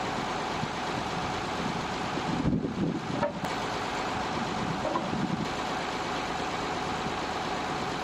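Tractor diesel engine running steadily, with a few louder knocks about two and a half to three and a half seconds in.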